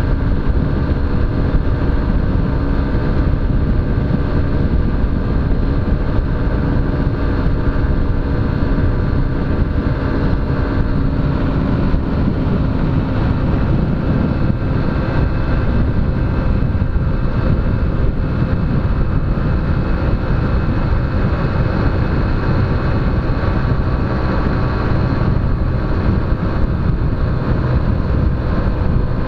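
Honda CG 125 Fan's single-cylinder four-stroke engine running steadily while riding, under a heavy, even rumble of wind on the action camera's microphone.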